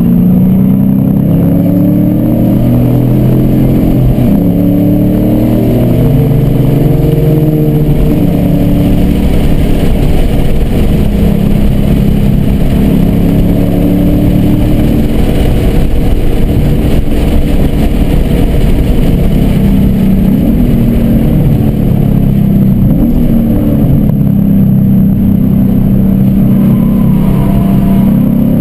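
Car engine heard from inside the cabin at track pace, pulling hard under full throttle with pitch steps at the gear changes, up to about 90 mph. It then comes off the throttle to slow for a corner near the end.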